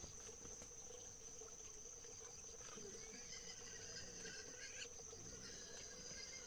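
Faint, steady insect chirring with a continuous high-pitched tone and a few faint scattered chirps.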